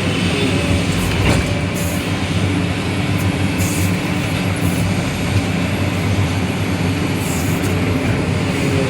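Heavy diesel engine of an ore-loading machine running steadily with a low, even drone. There is a single short knock about a second and a half in.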